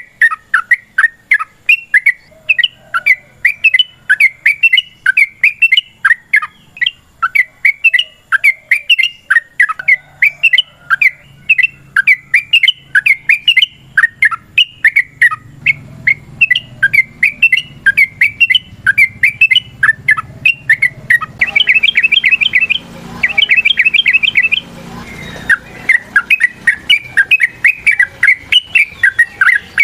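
Yellow-vented bulbul singing a long run of rapid, loud, chattering phrases, breaking twice into a very fast, even trill just past the middle.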